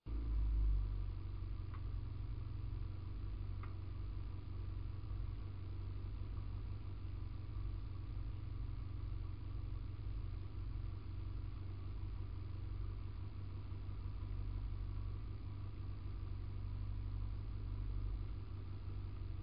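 Fiat 126p's air-cooled two-cylinder engine idling steadily, heard from inside the cabin, with no revving.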